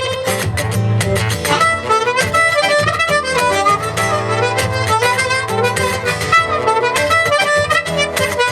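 Harmonica playing a melody over strummed acoustic guitar: an instrumental break in a live song.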